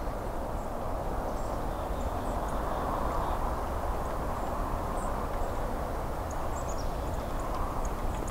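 Steady rushing of a creek, with a few faint, short, high bird calls over it.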